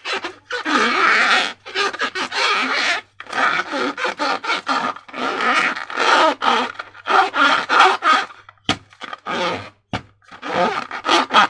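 Slime and rubber balloons squeezed and worked by hand: repeated short wet, squelching bursts with rubbery squeaks that bend in pitch.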